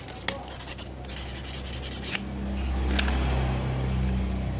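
Fine 1000-grit sandpaper rubbed back and forth on the burned electrical contacts of a car power-window switch, sanding the arc-pitted surface flat. A low steady hum comes in about halfway through and is the loudest part.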